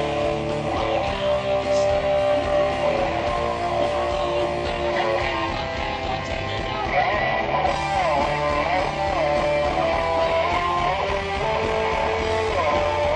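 Hard-rock band playing live, guitars to the fore over a steady bass, with notes sliding up and down in pitch in the second half.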